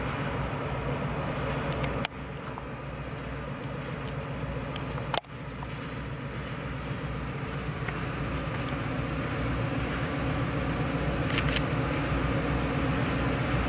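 A train passing, a steady low rumble of rolling wheels and cars that grows slowly louder, with two sharp clicks about two and five seconds in and fainter clicks near the end.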